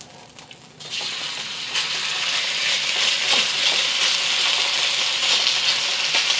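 Beef sizzling in hot oil in a wok as it starts to sear. A few faint clicks come first, then the sizzle starts abruptly about a second in and holds as a steady hiss.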